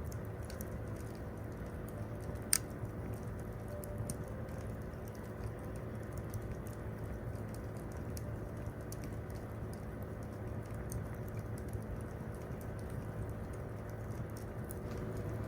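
Wood campfire crackling, with many small pops and one sharper, louder pop about two and a half seconds in.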